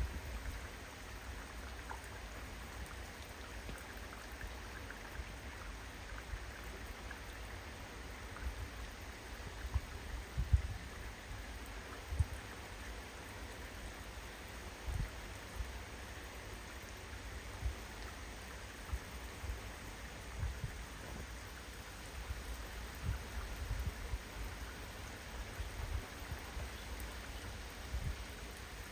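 Steady rain in a storm, with irregular low thumps of wind gusts buffeting the microphone.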